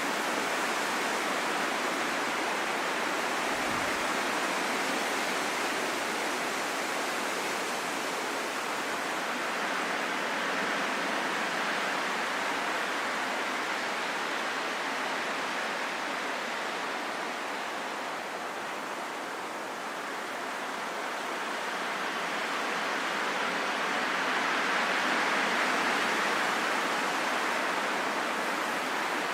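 Steady rain falling in a forest, an even hiss that eases a little about two-thirds of the way through and then swells again.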